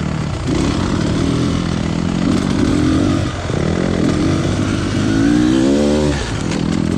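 Beta Xtrainer 300 two-stroke dirt bike engine revving up and down as the throttle is worked, with the revs dropping briefly three times: near the start, about halfway, and near the end.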